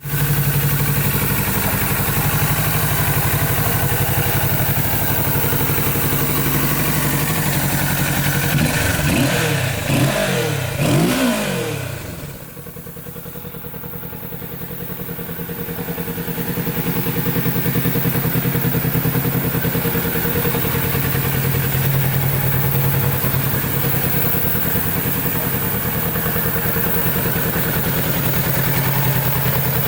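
Kawasaki Ninja 650's parallel-twin engine idling steadily, blipped a few times in quick revs about nine seconds in, then settling back to idle.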